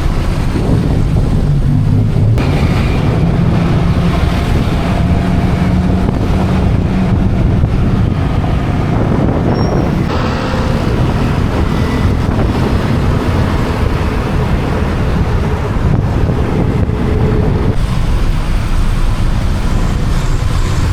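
Motorcycle running through traffic, heard under heavy wind buffeting the microphone, as on a motorbike ride with steady filtering and overtaking.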